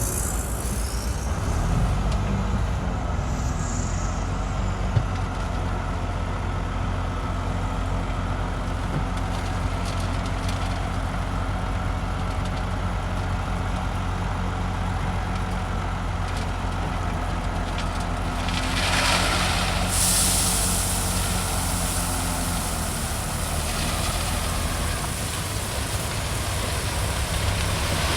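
Heavy diesel engine of earthmoving machinery running steadily under load. About two-thirds of the way in comes a short burst of hissing, followed by a steady high rushing sound over the engine.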